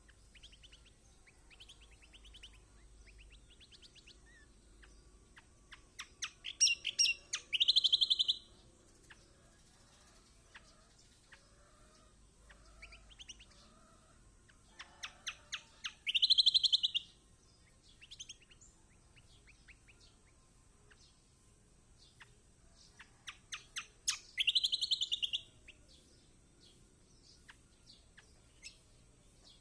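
Kecial kombok, a white-eye, calling in three bouts about eight seconds apart. Each bout is a run of quick sharp chips that speeds into a loud, harsh chattering call lasting about a second, with faint chips in between.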